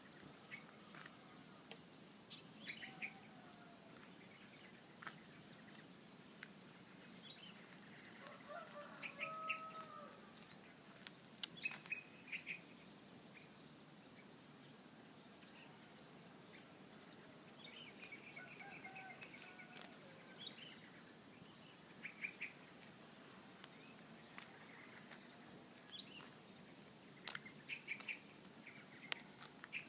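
A steady high-pitched insect trill runs through, with scattered short bird chirps. Twice, faint lower calls of chickens rise and fall, about a third of the way in and again past the middle.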